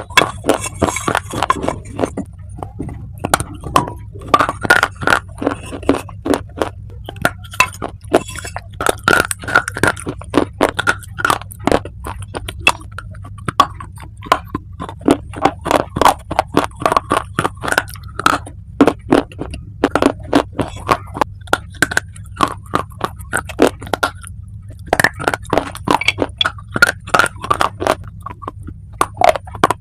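Close-miked crunching of dry clay being bitten and chewed: rapid sharp crunches in long runs with a few short pauses, over a steady low hum.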